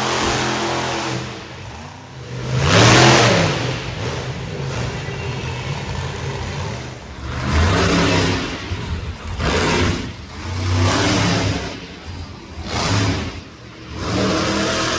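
Monster truck engine revving hard in repeated bursts, the loudest about three seconds in, then several shorter revs.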